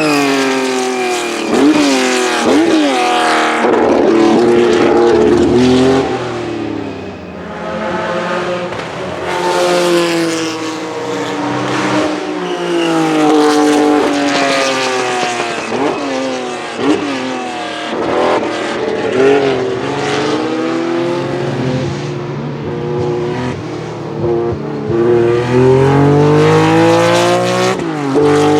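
1967 Porsche 910's two-litre flat-six racing engine at high revs under hard acceleration. The pitch climbs through each gear and drops sharply at every shift, over and over.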